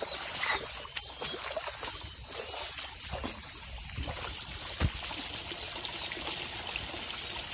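Small waterfall spilling into a rock pool: a steady rush and splash of falling water, with a soft thump about five seconds in.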